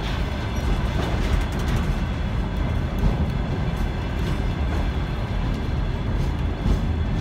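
Container flatcars of a freight train rolling past: a steady low rumble of wheels on rail, broken by irregular clicks as the wheels run over rail joints, with faint steady ringing tones above it.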